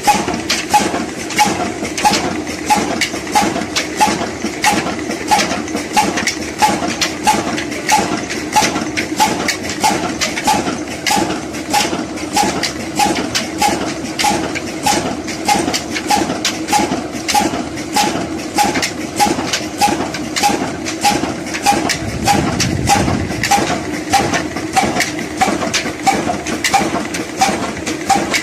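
Old Ruston Hornsby diesel engine running steadily, with an even knocking beat of about three strokes a second.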